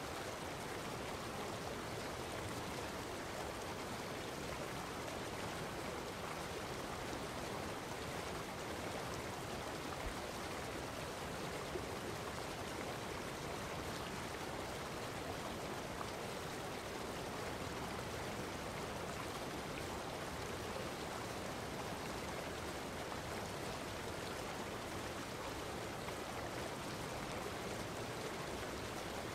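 Steady, even rushing noise of flowing water, unchanging throughout.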